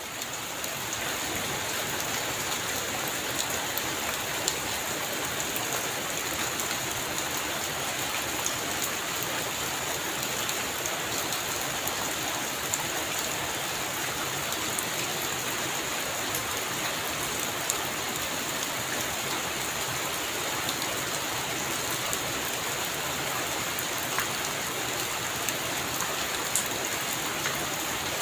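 Heavy rain falling steadily, a dense even hiss with scattered sharp drop ticks, fading up during the first second.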